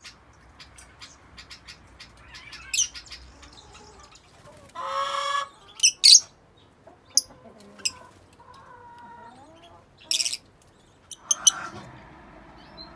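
Yellow-collared lovebirds (Agapornis personatus) in an aviary giving short, sharp, high-pitched chirps and shrieks, scattered and irregular. About five seconds in, a longer, lower call from another bird stands out.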